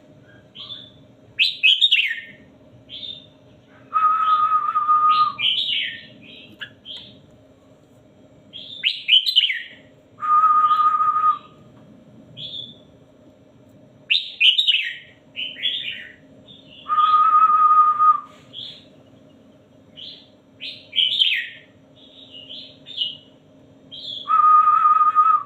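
Red-whiskered bulbul singing short whistled song phrases every second or two, a 'teacher voice' song of the kind played to train caged bulbuls. Four times, about every seven seconds, a steady buzzy tone lasting about a second sounds with the song, over a faint low hum.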